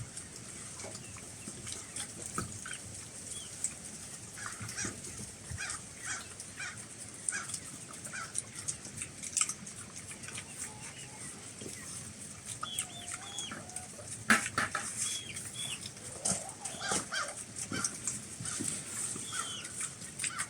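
Chickens clucking, with many short calls scattered throughout, and a single sharp knock about two-thirds of the way through.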